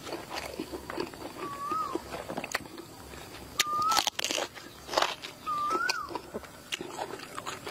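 Close-up mouth sounds of eating: chewing and crunching with wet clicks and the odd tap of a spoon. Three brief thin whistling chirps, each rising then dipping, sound at about one and a half, three and a half and five and a half seconds in.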